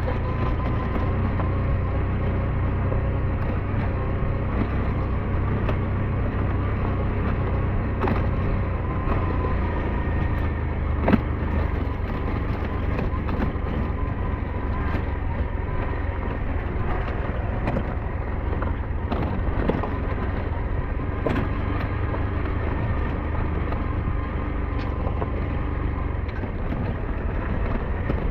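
SYM NH T 200 motorcycle engine running steadily while riding. Occasional short knocks and clicks sound over it, the sharpest about eleven seconds in.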